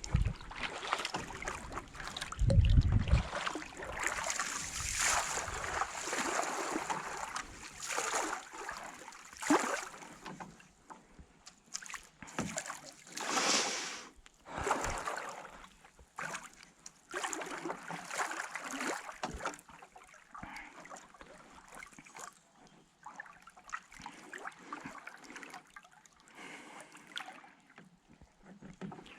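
Water splashing and trickling around a kayak in irregular bursts, without a steady stroke rhythm. A brief low rumble of wind on the microphone about two and a half seconds in.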